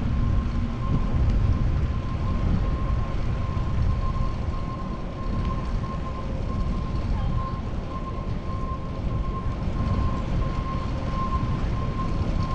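Wind and road noise on an action camera's microphone while riding a fixed-gear bicycle: a steady low rumble, with a thin steady high tone running underneath.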